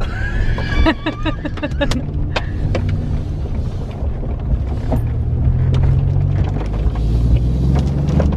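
Steady low rumble of engine and road noise inside a moving car. In the first two seconds a few short pitched sounds ride over it.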